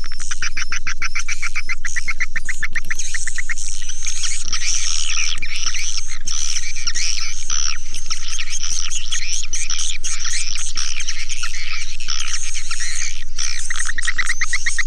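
A dense chorus of swiftlets chirping and twittering. Rapid rattling trills come in the first three seconds and again near the end.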